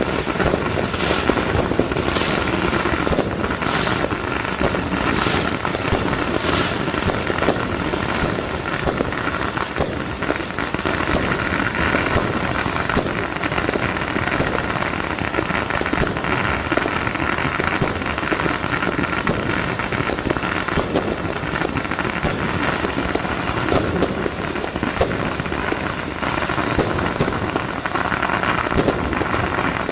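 Fireworks and firecrackers going off in a dense, continuous barrage of bangs and crackles, many per second, without a break.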